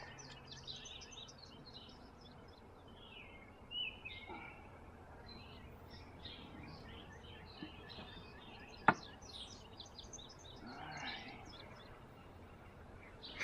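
Wild birds chirping and singing, many short calls overlapping, with one sharp click about nine seconds in.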